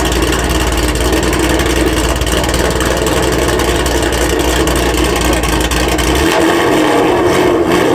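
A Ford Mustang's engine idling with a steady deep rumble that cuts out about six seconds in, when the engine is switched off. A mid-pitched engine hum carries on underneath.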